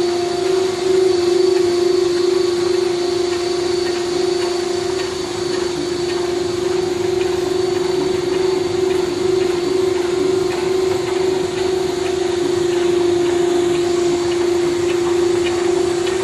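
ZPB25 automatic tablet pressing machine running, a steady machine hum with one strong held tone and faint scattered clicks.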